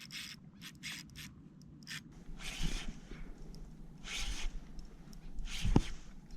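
A fishing reel being wound in and the line and rod handled as a hooked fish is brought up: a series of short, irregular scraping and rustling noises, with a brief low thump near the end.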